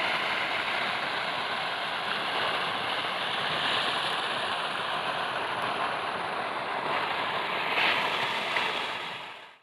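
Small waterfall's water rushing steadily, fading out near the end.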